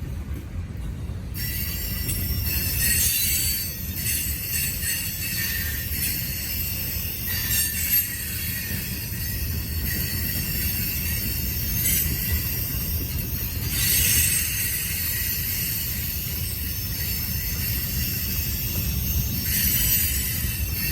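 Freight train cars rolling past with a steady low rumble and high-pitched steel wheel squeal that comes and goes every few seconds.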